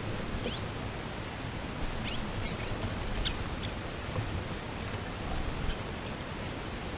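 A few short, high, rising bird chirps over a steady hiss.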